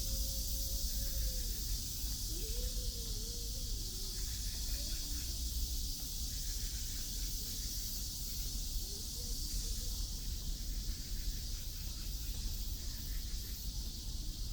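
Outdoor city-park ambience: a steady high hiss over a low rumble, with faint wavering tones that come and go, like a distant voice, in the first few seconds and again about nine seconds in.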